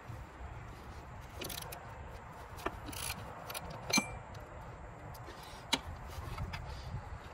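Metal hand tools clinking against metal during timing belt work: a handful of sharp clinks, the loudest about four seconds in with a brief metallic ring. Under them runs a low steady rumble.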